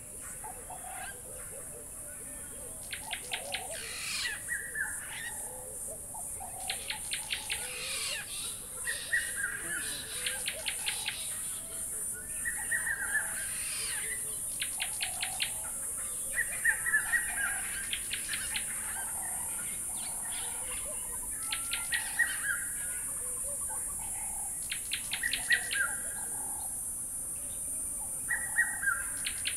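A bird calling over and over, a phrase every two to three seconds: each phrase is a fast rattle of clicks ending in a short, lower falling note. A steady high-pitched hiss runs underneath.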